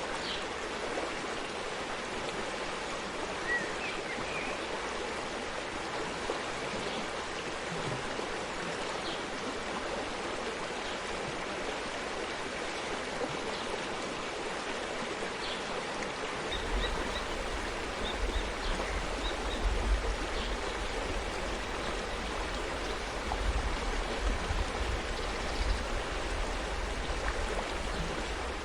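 Forest stream running steadily, water splashing and gurgling. A low rumble joins about halfway through, and a few faint short high chirps sound over the water.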